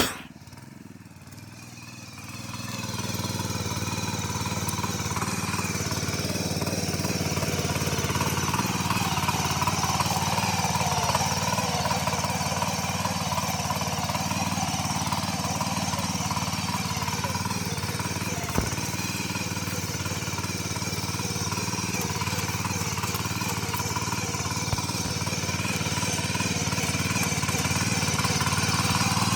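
A mini tractor's engine running steadily, growing louder about two seconds in and then holding an even note.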